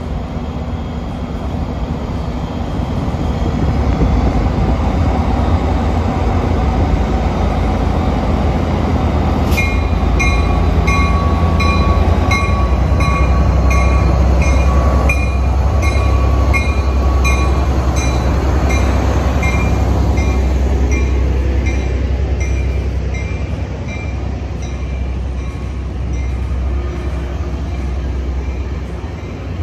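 A diesel commuter train, a Tri-Rail locomotive hauling bi-level coaches, passes close by, with a heavy low engine rumble and wheel noise, loudest as the locomotive goes by. From about ten seconds in, a high ringing beat repeats regularly, roughly every 0.7 seconds. A steady squeal runs alongside it until about eighteen seconds in.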